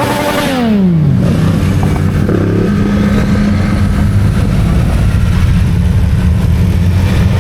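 Motorcycle engine, its pitch falling steeply over the first second after a rev, then a steady low engine drone of running bikes.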